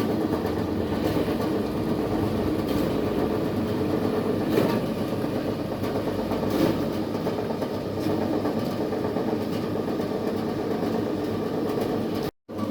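Chicken-meat shredding machine running: a steady motor and mechanism drone with a few light knocks.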